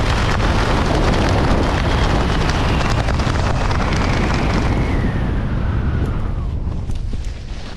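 Loud wind roar buffeting the microphone from a skydiver's airstream, easing off over the last two seconds.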